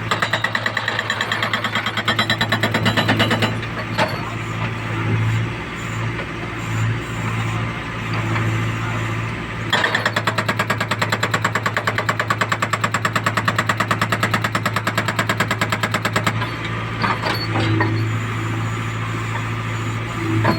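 A hydraulic breaker on a JCB machine hammers concrete in rapid, evenly spaced blows over the steady running of the machine's engine. The hammering comes in two spells, for about the first four seconds and again from about ten to sixteen seconds in.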